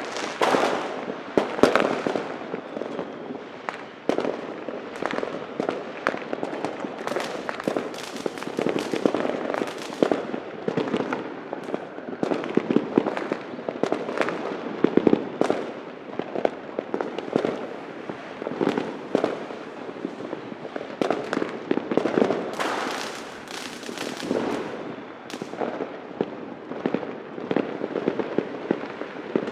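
Many fireworks and firecrackers going off at once: a dense, unbroken run of overlapping bangs and crackling, with a few louder bangs standing out.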